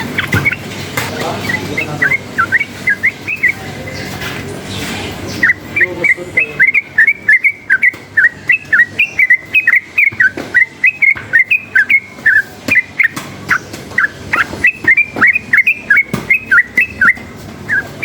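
Yellow-vented bulbul (trucukan) singing in short, bubbling, whistled notes. A brief phrase comes about two seconds in, followed by a long, fast run of about four to five notes a second that lasts until near the end.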